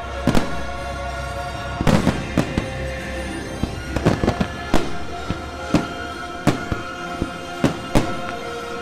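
Fireworks shells bursting overhead in quick succession, a sharp bang roughly twice a second, over the show's music.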